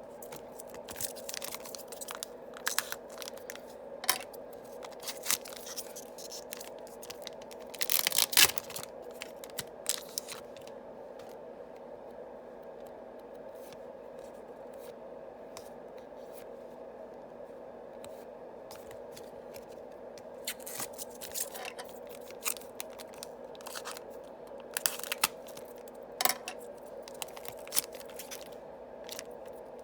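Yu-Gi-Oh booster packs being torn open and their cards handled: bursts of foil tearing, crinkling and rustling, loudest about eight seconds in, with a quiet stretch in the middle. A faint steady hum underneath.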